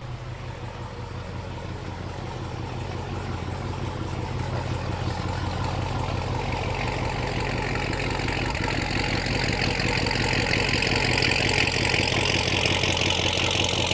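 A sports car's engine running steadily, growing gradually louder throughout.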